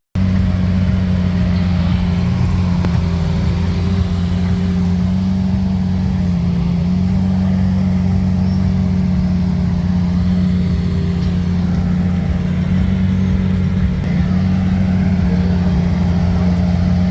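Lamborghini Aventador's V12 engine idling steadily at an even, unchanging pitch, with no revving.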